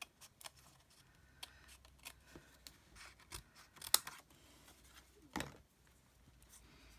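Small paper snips cutting cardstock by hand: scattered crisp snips while fussy-cutting around a stamped image, the sharpest about four seconds in and another just after five seconds.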